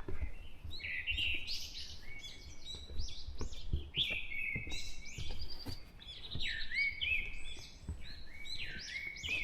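Dawn chorus of several songbirds, with overlapping chirps and short warbled phrases throughout. Faint low thumps of footsteps on the trail.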